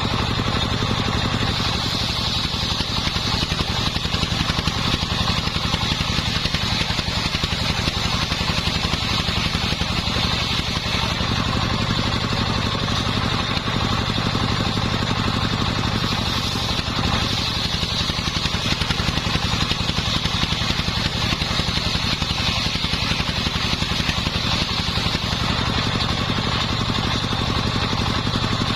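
Engine driving a homemade circular-saw rig, running steadily, with a steady high whine over it.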